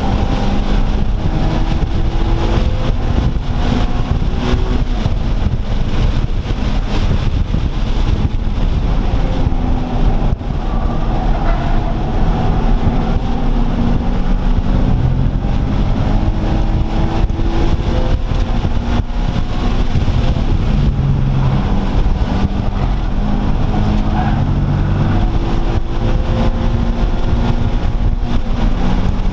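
Several car engines running and idling at varying pitches, with a steady low rumble of wind on the microphone.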